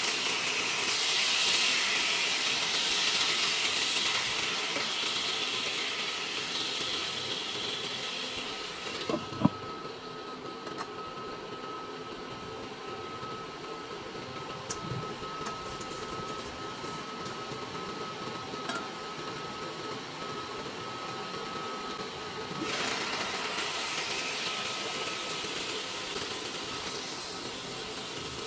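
Tuna steaks sizzling in oil and sauce in a frying pan. About a third of the way in there is a clink, and the sizzling turns quieter and muffled under a glass lid, with a faint steady whine. It grows loud again near the end once the pan is uncovered.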